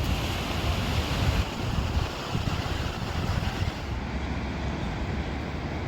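Wind buffeting the microphone over the steady wash of Atlantic surf.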